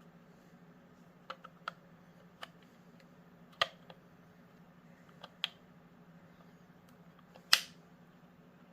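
Scattered sharp plastic clicks and snaps as the Theragun massage gun's plastic panel is pried loose from its retaining tabs, about nine in all, the loudest snap near the end.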